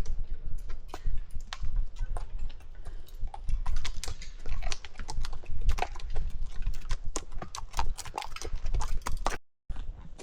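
Horse hooves clip-clopping in an irregular patter over a steady low rumble on the microphone; the sound drops out for a moment near the end.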